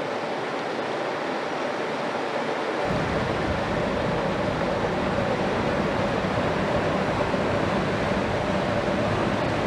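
Inland cargo ship's diesel engine running steadily as it passes, with a faint constant drone and a wash of water and wind; a low rumble comes in about three seconds in.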